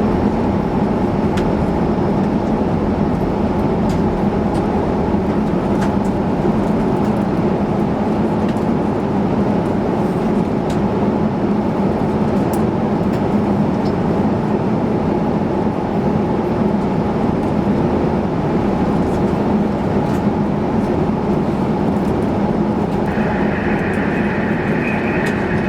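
Steady in-flight cabin noise of a jet airliner: a constant rush of airflow and engine drone. A steady high tone joins near the end.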